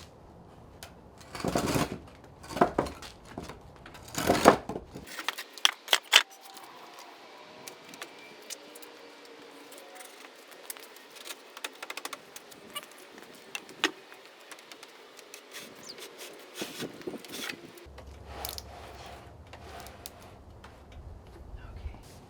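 Scattered knocks, clanks and rattles of a heavy cast-iron drill press and its rigging being shifted on wooden planks, with several loud knocks in the first few seconds, then lighter clicks and rattles.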